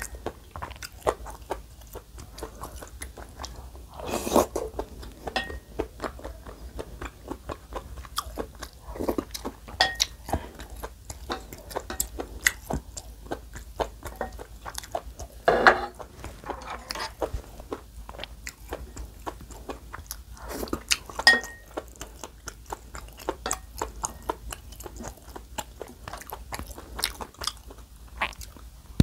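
Close-miked chewing and biting of soft rice cakes and dumplings from a soup, with many small wet mouth clicks. There are a few louder moments about four, fifteen and twenty-one seconds in.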